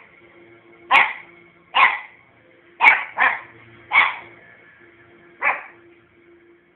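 A puppy barking: six short, sharp barks about a second apart, with a longer pause before the last one.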